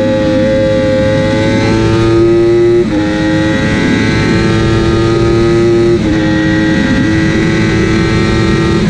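Superbike engine at high revs, the pitch climbing slowly under full throttle, with two sudden upshift drops about 3 seconds apart. These are shifts without a quickshifter, since the bike's electronics were out. Wind rushes over the onboard microphone.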